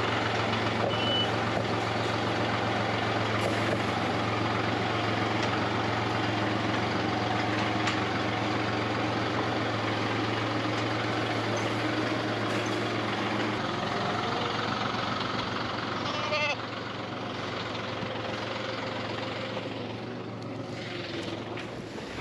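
John Deere 5055E tractor's three-cylinder diesel engine running steadily, turning quieter about three-quarters of the way through.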